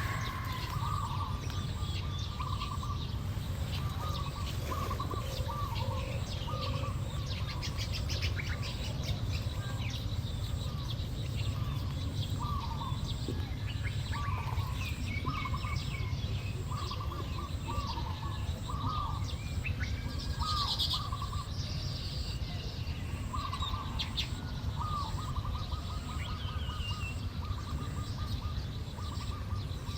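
Weaver birds chirping: short chirps repeating again and again, over a steady low rumble, with scattered small ticks.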